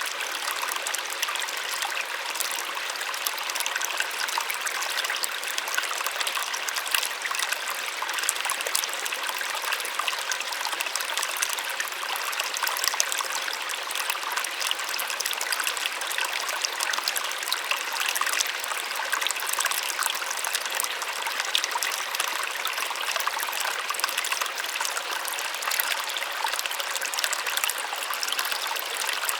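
Small waterfall splashing steadily, a continuous bright rush of falling water with little low rumble.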